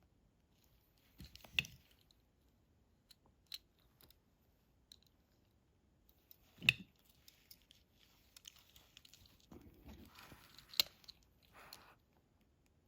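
Faint handling noises of small die-cast toy cars being picked up and set down: light clicks and knocks, a louder one about halfway through, with soft rustling near the end.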